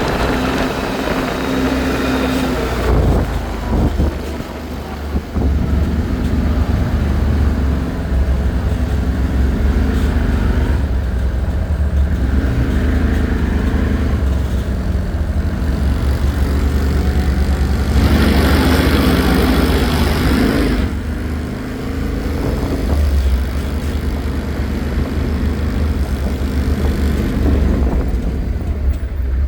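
ATV engine running while riding, with a steady low rumble of wind on the microphone. About eighteen seconds in, the sound grows louder and hissier for a few seconds.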